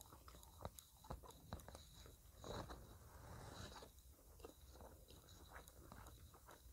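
Near silence with faint chewing of a mouthful of meatball and rice: a few soft mouth clicks scattered through it.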